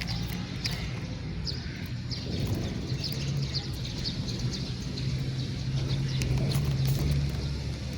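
House sparrows chirping, short high chirps repeating irregularly about once or twice a second, over a steady low hum.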